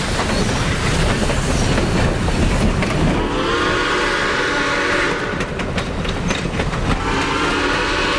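Southern Railway Mikado steam locomotive No. 4501 running with a passenger train. Its steam whistle blows twice: a blast starting about three seconds in and another near the end, over the steady rumble of the moving train, with a quick run of clicks in between.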